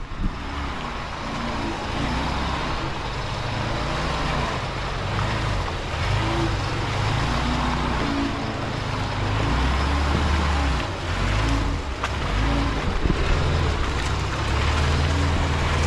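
UAZ off-roader's engine revving up and down repeatedly under load, working the vehicle through sticky clay.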